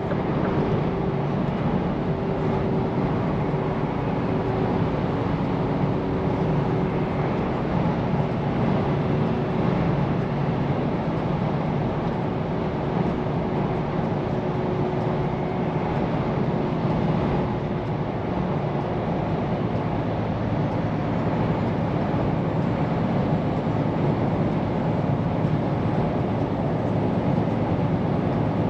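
Scania P410 car-carrier truck on the move: its engine running steadily under road and tyre noise, with a few faint held tones over the rumble.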